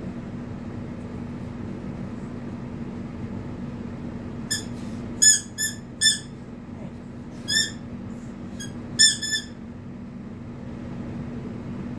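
A squeaky dog toy squeaked about nine times in quick groups, each squeak short, high and flat in pitch, over a steady low hum.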